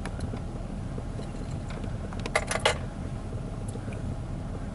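Steady low rumble of a car idling, with a quick run of sharp clicks or rattles a little past halfway.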